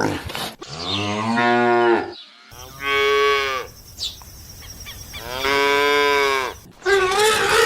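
Cow mooing three times, each moo a long drawn-out call of about a second or more. Near the end a different, wavering animal call begins.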